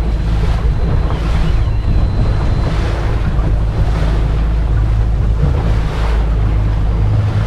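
Fishing boat under way: its engine runs at a steady hum under the rush of water along the hull and wind on the microphone.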